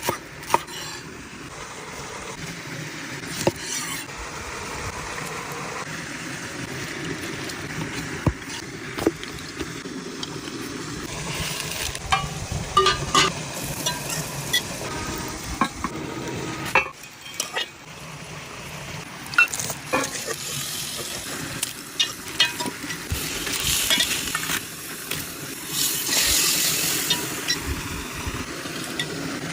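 Food sizzling and frying in a pan as it is stirred, with scattered sharp clinks of a utensil against the pan. The frying noise drops out briefly a little past halfway.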